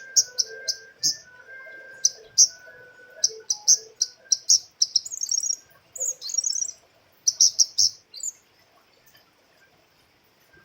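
Female flowerpecker (cabai rimba, kemade) calling: a rapid series of sharp, high chips, several a second, broken by two short buzzy trills about five and six seconds in, and stopping after about eight seconds.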